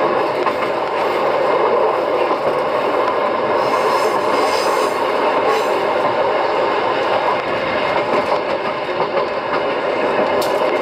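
Wakayama Electric Railway Kishigawa Line train running, heard from inside the passenger car: a steady, even noise of wheels on track.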